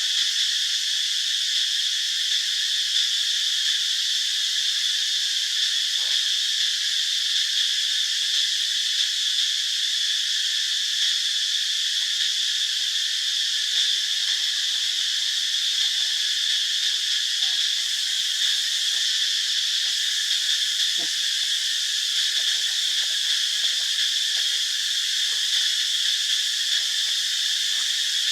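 Steady insect chorus: a dense, high-pitched drone that holds on without pauses.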